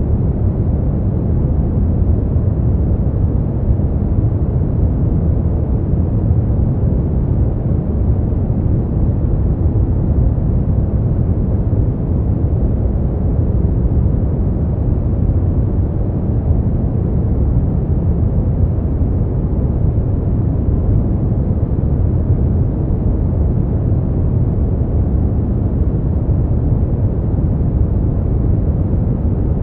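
Steady brown noise: an even, deep rushing hiss, strongest in the bass and fading out toward the treble, with no change in level.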